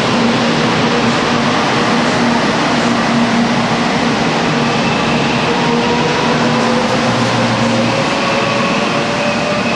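Tokaido Shinkansen train moving along the platform, a loud steady running noise with a motor whine that rises slowly in pitch as the train gathers speed.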